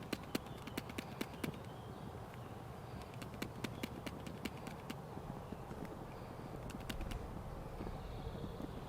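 Footsteps crunching on dry beech leaf litter and twigs, an irregular run of sharp cracks and rustles, with faint birdsong now and then.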